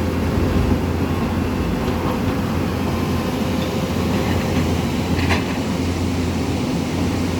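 Floodwater of a swollen river rushing in a steady, loud roar, with a brief click about five seconds in.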